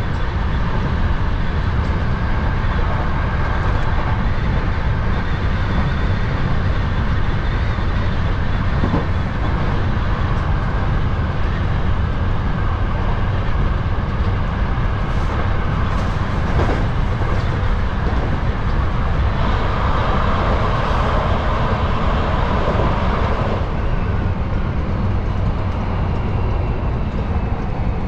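Hankyu 7000 series electric train running, heard from behind the driver's cab: a steady rumble of wheels on rail and running gear, with a stretch of louder, higher-pitched noise about twenty seconds in.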